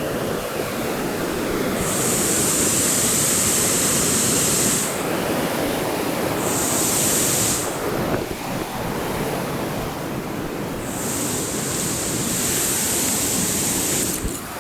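Steady rush of whitewater from the McCoys Chute rapid on the Ottawa River. A high-pitched buzz comes in and cuts out three times over it, and there is a short knock near the end.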